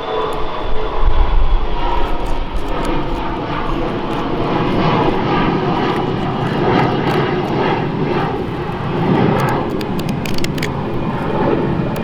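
Airplane flying over: a steady, loud engine drone, deepest and strongest in the first couple of seconds, then holding at a lower level.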